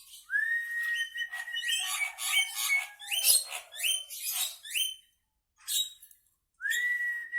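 Javan myna singing: a long, even whistle, then a quick run of sharp chattering and squawky notes, a short pause about five seconds in, and another long whistle near the end.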